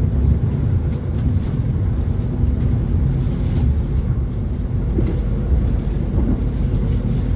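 Steady low rumble of the Argo Wilis passenger train heard from inside its stainless-steel executive coach, the wheels rolling over the rails at about 80 km/h, with a faint steady hum underneath.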